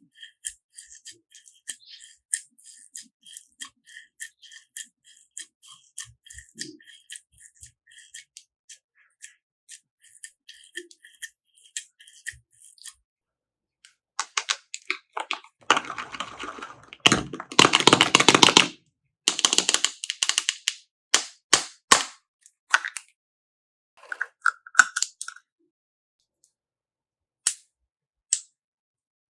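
Slime being handled, with rapid small crackling clicks and pops. About halfway through comes a louder, denser stretch of squelching crackle, then scattered pops.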